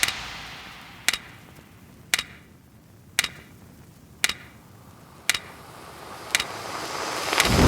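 A break in the soundtrack music: seven sharp clock-like ticks, evenly spaced about a second apart, as the music fades away, with a rising swell near the end leading back into loud music.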